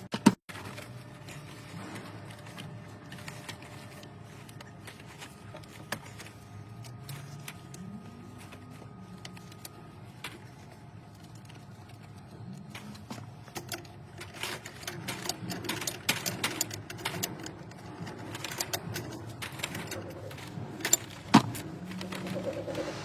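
Scattered clicks, knocks and light metal clatter, with a sharp hit just after the start and another about 21 seconds in, over faint voices in the background.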